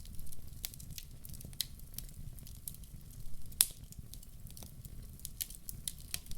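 Wood fire in a fireplace crackling, with irregular sharp pops over a low steady rumble; the loudest pop comes a little past halfway.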